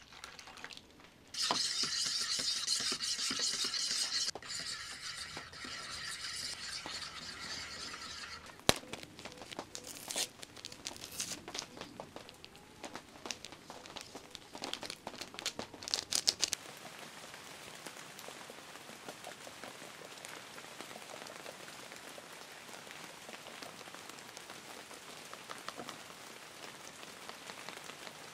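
Rain pattering on the clear plastic walls of an inflatable tent, with scattered sharp drops and then a steady patter over the second half. A louder, even rushing sound over the first several seconds comes from milk being poured into a batter bowl.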